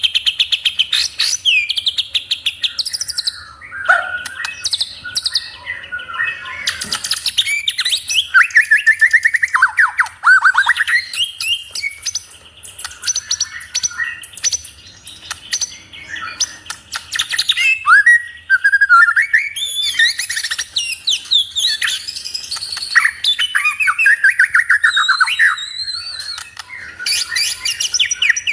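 Songbird singing a fast, varied song of rapid trills, chirps and whistles almost without pause. It is a pancingan lure recording, played in Indonesian bird-keeping to stir caged birds into song.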